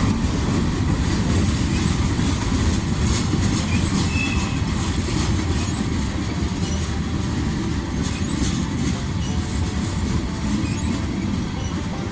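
Freight train rolling past, its cars rumbling steadily over the rails as it picks up speed.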